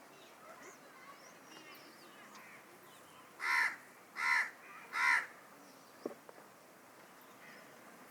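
Peacock (Indian peafowl) giving three loud, harsh calls in quick succession, a little under a second apart, about halfway through. Small birds chirp faintly throughout.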